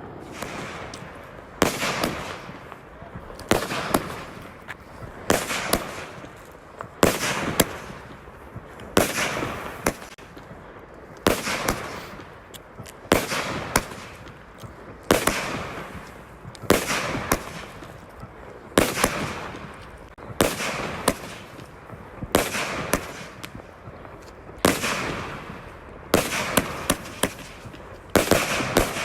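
Fireworks going off in a steady series, a sharp bang about every two seconds, each followed by a fading crackle.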